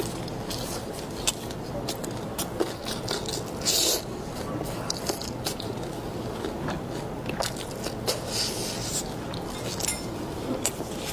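A person eating: chewing with many sharp clicks and crunches, and two louder noisy bursts, about four and eight and a half seconds in.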